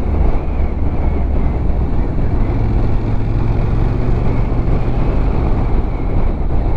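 Honda NC750X motorcycle riding at a steady speed: a low, even engine hum under heavy wind and road noise on the rider's microphone.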